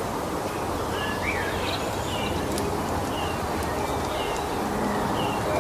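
Small birds chirping over a steady outdoor background noise, with short high chirps repeating about once a second and a rising call a little over a second in.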